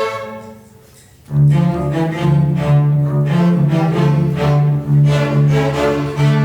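A string orchestra playing: a held chord dies away, and about a second later cellos and double basses come in loudly with a low, pulsing line under the upper strings.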